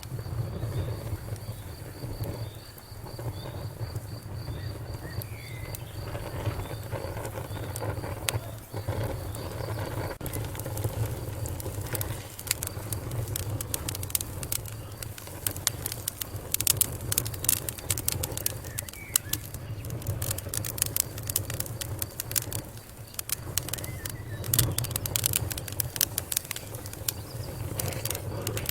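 Wood fire crackling, with irregular sharp pops and snaps that grow denser and louder about halfway through, over a steady low rumble. A faint high, rapidly repeating chirp, like a cricket, sits in the background for the first third.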